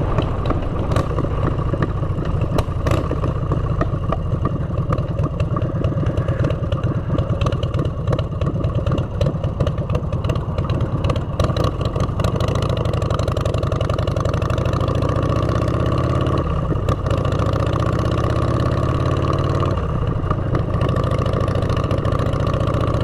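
Motorcycle engine running through aftermarket exhaust pipes while riding, steady and loud. Engine speed rises and falls in the second half.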